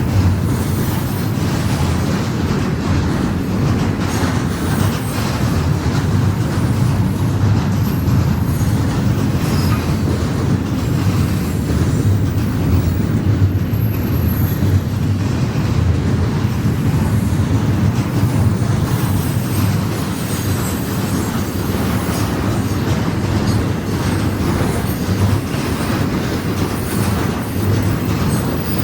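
Freight train cars rolling steadily past: a continuous low rumble of wheels on rail, with a faint high wheel squeal now and then.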